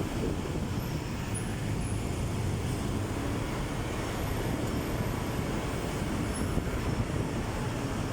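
Moving motorcycle: a steady low rumble of road and wind noise, with no clear engine note standing out.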